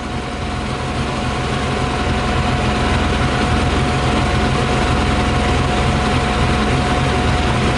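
Yamaha YZF 600R inline-four engine idling steadily while running on 40% whisky in place of petrol, with a thin steady whine over the hum. It gets a little louder over the first couple of seconds, then holds.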